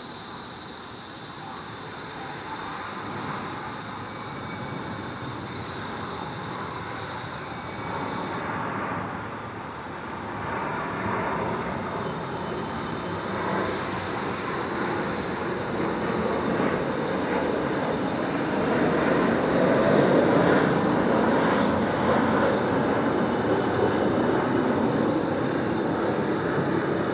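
Rumble of a passing vehicle in city ambience, swelling gradually to its loudest about twenty seconds in.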